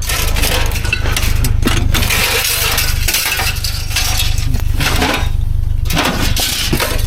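Scrap appliance sheet metal and metal parts clanking and rattling in dense, irregular knocks as they are handled and broken down, over a steady low hum.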